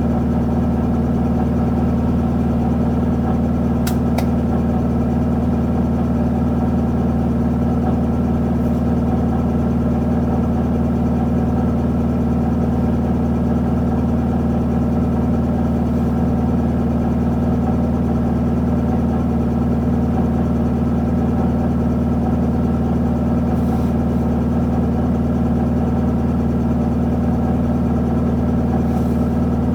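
Isuzu Erga city bus's four-cylinder diesel engine running at a steady idle, its pitch unchanging. A couple of light clicks sound about four seconds in.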